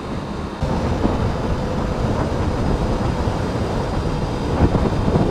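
Wind rushing over the microphone and a motorcycle engine running as the bike rides on. The wind noise jumps up sharply about half a second in and then holds steady.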